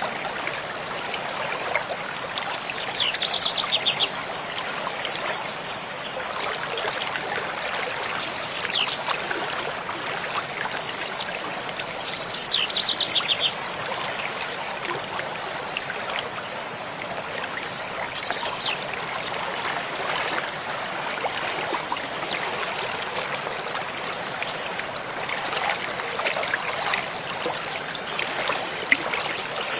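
Mountain stream flowing steadily. A small bird sings short, high trilled phrases four times, a few seconds apart, over the first two-thirds.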